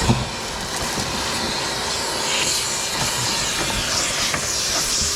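Steady hissing noise with a faint constant hum and a few light knocks.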